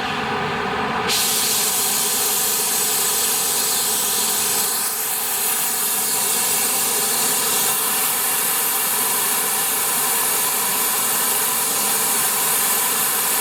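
Oxy-acetylene torch flame burning at high gas pressure: a steady, loud hiss that gets brighter and louder about a second in, then holds.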